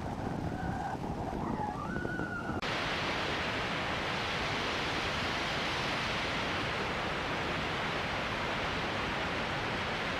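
Steady rushing wind noise of a blizzard, with faint thin tones in the first couple of seconds. About two and a half seconds in, an abrupt cut gives way to an even, broader rush.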